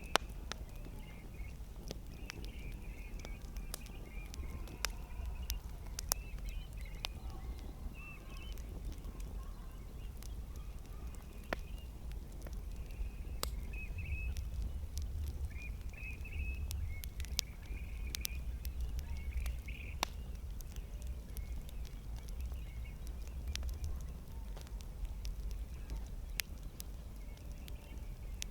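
Wood campfire crackling, with sharp irregular pops scattered throughout over a steady low rumble, and birds chirping faintly in the background.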